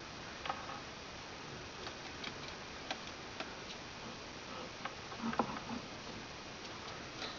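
Scattered light ticks and taps over a faint room hiss, with a brief cluster of soft knocks about five seconds in.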